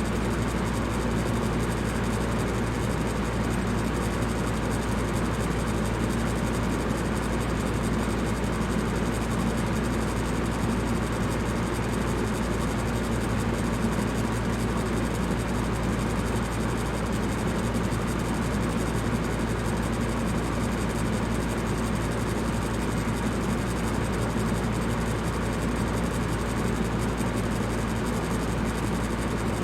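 Electric fan running steadily: an even whoosh of moving air with a low hum underneath.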